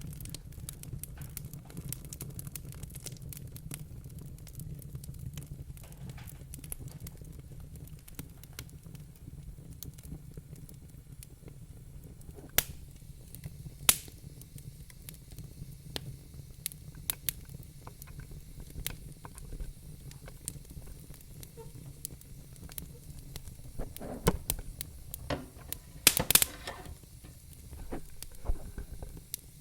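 Wood fire crackling in a fireplace: a steady low rumble of flames under constant small snaps, with a few louder pops about halfway through and a sharp cluster of pops near the end.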